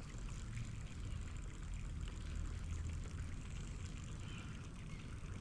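Creek water trickling and flowing steadily.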